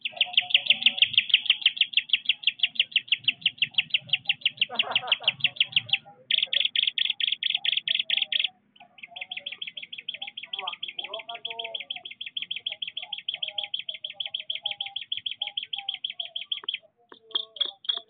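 Rapid bird-like chirping trill, about eight or nine sharp high chirps a second, in long runs broken by short pauses. It is loudest in the first half.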